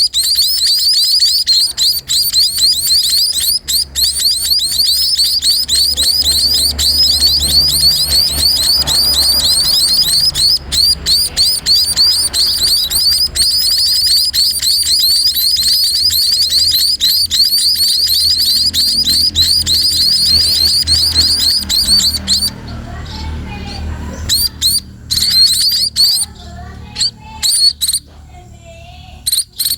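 Sparrow (burung pipit) giving a rapid, unbroken stream of high chirps while being fed, typical of a young bird's begging calls. About three quarters of the way in the stream breaks off into a few short bursts.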